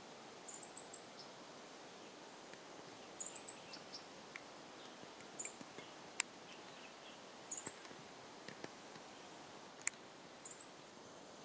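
Madagascar red fody giving short groups of very high, thin chirps every second or so. Two sharp clicks come about six and ten seconds in.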